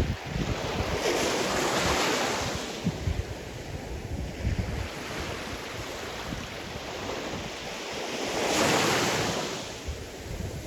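Sea surf washing onto the shore, two waves surging up and falling back, the first about a second in and the second later on. Wind buffets the microphone with a gusty low rumble.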